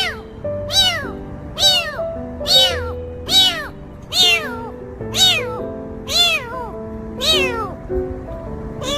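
A cat meowing over and over, about one meow a second, each call rising and then falling in pitch. Background music plays underneath.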